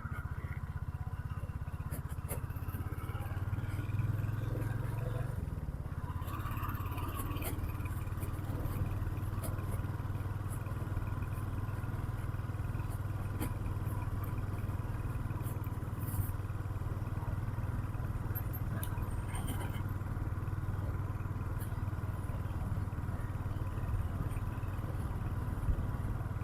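Motorcycle engine running steadily with a low, even hum, a few faint clicks and knocks over it.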